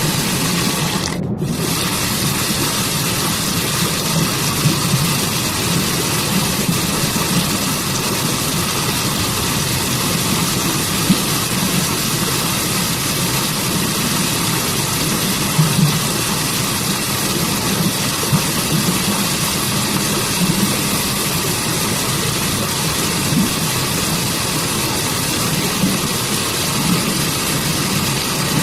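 Waterfall and forest stream water rushing in a steady, unbroken hiss, with the high end briefly dipping out about a second in.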